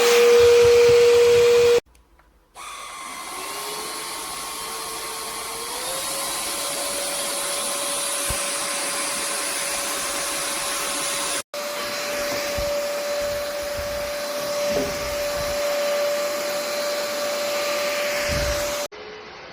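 Vexilar V9PRO cordless stick vacuum motor running with a steady whine. It stops about two seconds in, starts again and spins up to a higher pitch over a few seconds, then runs steadily with a brief dropout near the middle. Near the end it falls to a quieter, lower hum.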